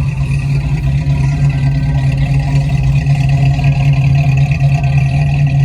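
An engine running close by at a steady speed, a loud low hum that holds one pitch throughout.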